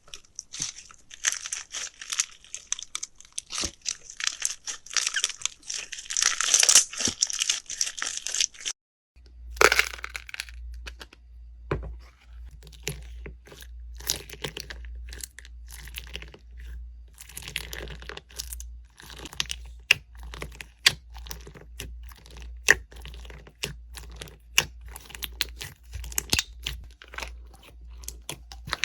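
Slime being handled and pressed by hand. For about the first nine seconds it makes a dense crackling, crinkling sound. After a brief cut it gives scattered sharp clicks and pops over a steady low hum.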